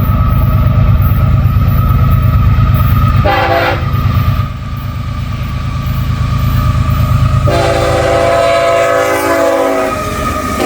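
A CSX freight train passing at speed with a heavy rumble, its locomotive horn giving a short blast about three seconds in and a longer blast of about two and a half seconds near the end.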